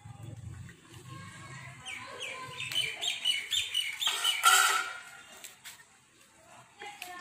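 Bird calls: a quick run of repeated high chirps, followed about four and a half seconds in by a single short, loud, harsh call.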